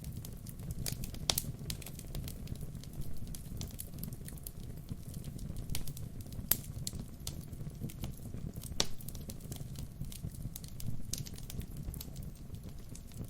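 Wood fire burning: a low steady rumble of flames with irregular sharp crackles and pops of the burning logs, the loudest pops about a second in and about halfway through.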